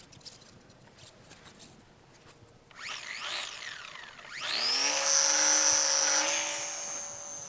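Small electric motor and propeller of a 450 mm mini SF260 RC plane: a brief rev up and down, then about halfway through a rising whine to steady throttle as the plane is hand-launched, easing off near the end as it flies away.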